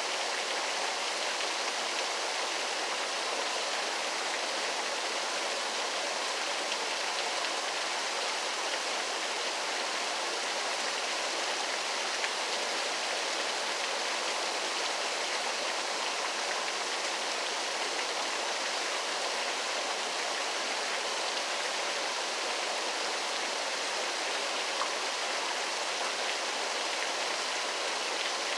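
Waterfall: water rushing and splashing in a steady, unbroken hiss with little low rumble.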